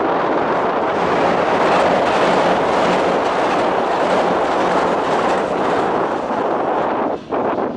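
E653 series electric limited express train passing at speed, a loud steady rush of wheels on the rails that fades and breaks off about seven seconds in.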